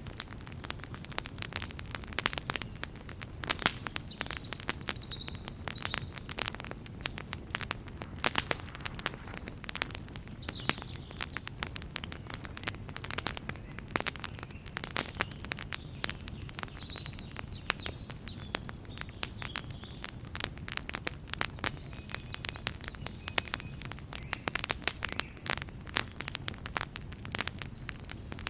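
Wood campfire crackling: many irregular pops and snaps over a low, steady rumble of flame.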